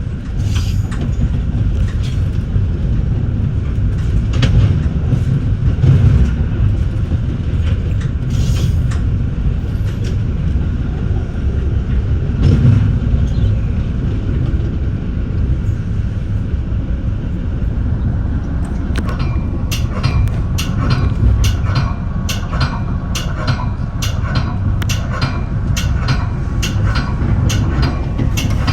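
Metra bi-level commuter car rolling along the main line: a steady low rumble of wheels on rail, with scattered sharp clicks. About two-thirds of the way through, a regular run of sharp, ringing clicks starts, about two a second.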